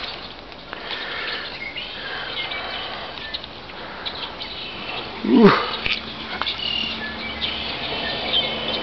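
Small birds chirping off and on in short high notes. About five seconds in comes one brief, loud sound that sweeps steeply down in pitch, and after it a low steady hum sets in.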